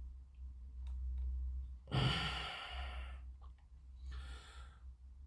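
A person sighs with a long breathy exhale about two seconds in, then breathes out more softly near the end. A few faint small clicks sound over a steady low hum.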